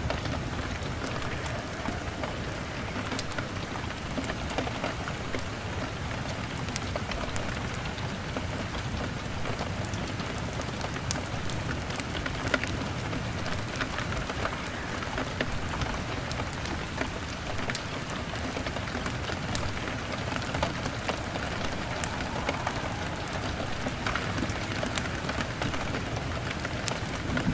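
Steady rain on a window pane, with scattered sharp crackles and pops from a burning log fire.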